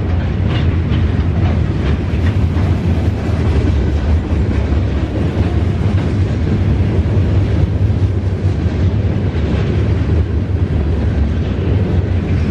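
Norfolk Southern gondola cars of a freight train rolling past, their steel wheels on the rails making a steady, loud rumble.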